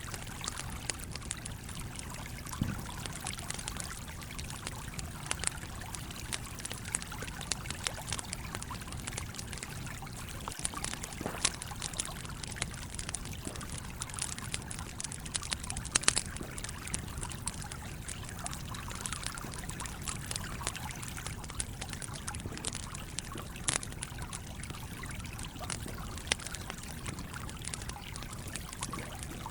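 Campfire crackling, with irregular sharp pops (the loudest about sixteen seconds in), over the steady rush of a flowing stream.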